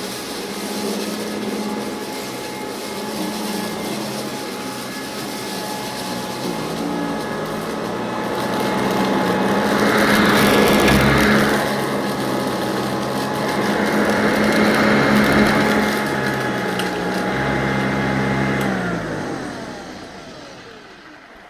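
Vacuum cleaner running, with two louder hissing, rattling stretches about halfway through as small beads are sucked up off the floor. Near the end the motor is switched off and winds down, its whine falling in pitch.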